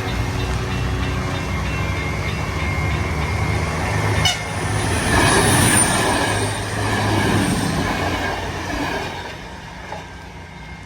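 Diesel passenger train passing close by: a steady engine drone, then a sharp clack about four seconds in and the loud rumble of the cars going past with a faint high wheel squeal, dying away near the end.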